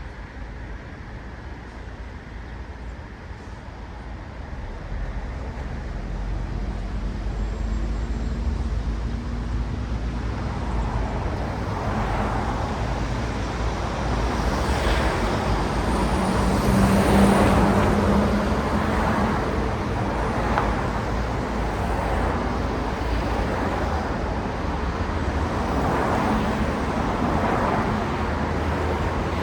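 City road traffic: cars passing one after another over a steady low rumble. It grows louder from a few seconds in, and the loudest vehicle, with a low engine hum, goes by a little past the middle.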